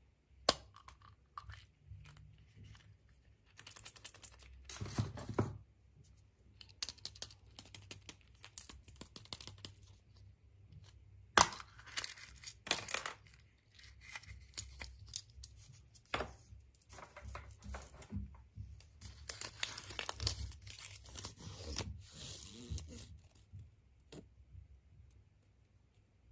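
Paper or plastic wrapping being torn and crinkled by hand, in irregular rustling stretches with a few sharp clicks and snaps.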